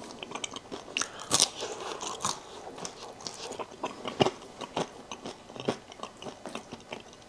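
A person biting into and chewing crisp air-fried French fries: a run of irregular crunches, the strongest at about one and a half and about four seconds in. The crunch is the sign of fries crispy on the outside.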